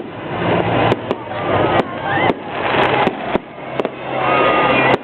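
Aerial fireworks display: repeated sharp bangs of shells bursting, about seven in five seconds at irregular spacing, over a steady crackling, rumbling wash, with spectators' voices faintly underneath.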